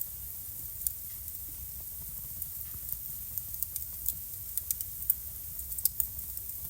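Wood fire burning in a home fireplace, crackling: irregular sharp pops and snaps over a steady low rumble and hiss.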